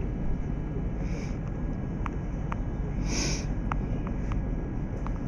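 Inside a Lastochka ES2G electric train under way: a steady low running rumble with occasional sharp ticks, and a short hiss about three seconds in.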